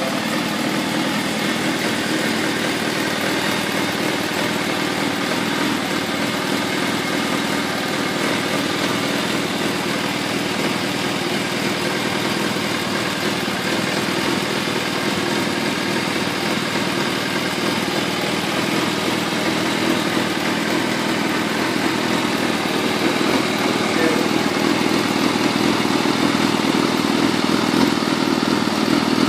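Kawasaki ZRX400-II's inline-four engine idling steadily through an aftermarket carbon muffler, a little louder over the last few seconds.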